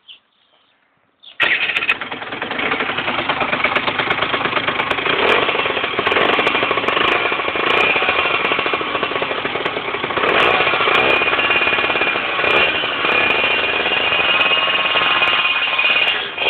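Yamaha TZR 50's single-cylinder two-stroke engine, breathing through a LeoVince exhaust, comes in suddenly and loud about a second and a half in and keeps running with a fast rattling beat, its pitch rising and falling a few times as it is revved.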